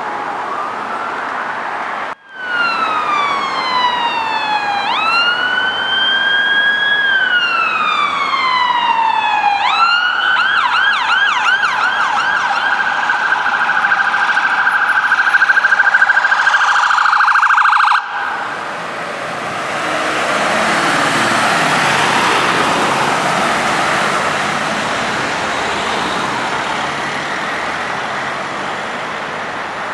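Emergency vehicle siren on a slow wail, falling and rising in pitch, switching about ten seconds in to a fast yelp. It stops abruptly after a few more seconds, leaving road traffic noise.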